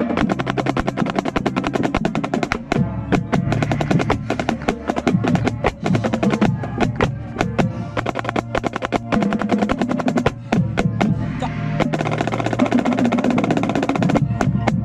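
Marching snare drum played right at the microphone in rapid strokes and rolls, with the band's wind instruments holding sustained notes underneath.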